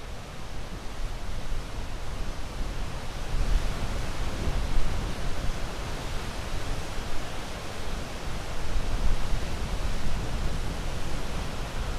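Ocean waves washing onto a shore: a steady rushing surf that swells louder about four seconds in and again near the end.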